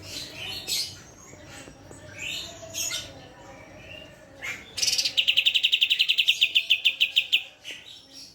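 A songbird chirping in short, varied calls, then about five seconds in breaking into a loud, rapid trill of about ten even notes a second that stops abruptly after some two seconds.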